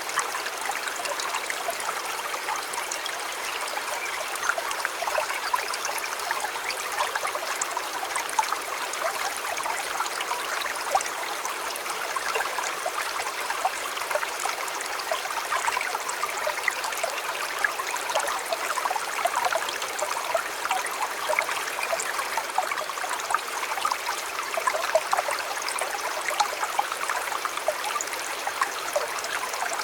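A shallow river or stream flowing steadily over rocks, babbling with many small splashes and bubbles.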